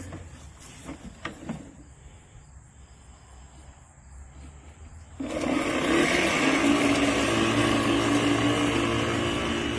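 A LawnMaster CLM2413A 24V cordless lawn mower's electric motor and blade start up abruptly about five seconds in and run steadily with a hum and a whirr, after a few faint clicks.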